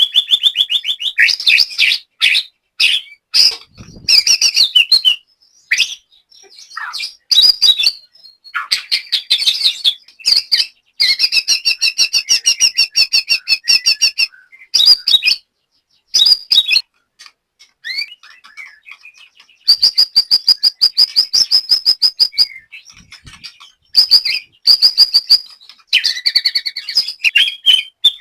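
White-rumped shama singing a long, varied song: whistled phrases broken by fast strings of rapidly repeated notes, with a few short pauses.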